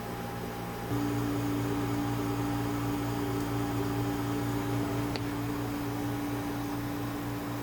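Steady mechanical hum of a small motor or appliance. About a second in it grows louder and takes on a higher steady tone.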